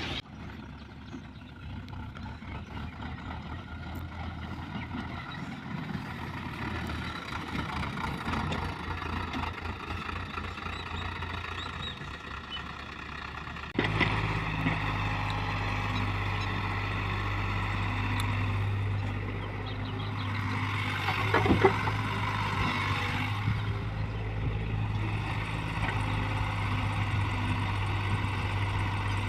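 Diesel engines of an excavator and tractors running at a dirt-loading site. About halfway through, a louder, steady engine sound with a deep hum sets in suddenly, and a few sharp knocks follow a few seconds later.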